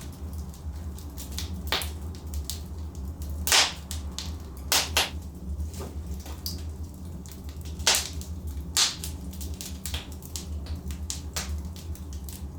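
Wood fire burning in a fireplace, crackling with irregular sharp snaps and pops, a handful of them much louder, over a steady low rumble.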